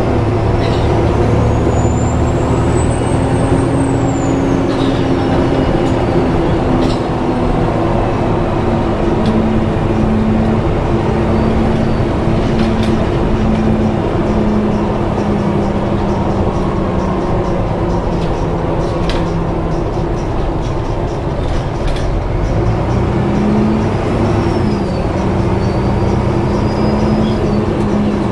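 Volvo B7TL double-decker bus heard from on board, its engine and cooling fan running with a steady drone. A thin high-pitched squeal rises and then falls in the first few seconds, and a fainter one comes near the end. A few light clicks and rattles sound in between.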